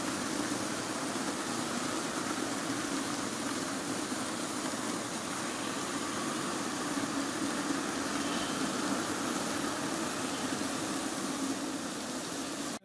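Freight train wagons rolling past, a steady, even rumble without distinct wheel clicks, which cuts off suddenly near the end.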